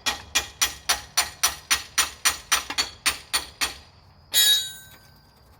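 A hammer striking metal in a fast, even series of about fourteen blows, about four a second. Then, after a short gap, comes one louder clang that rings.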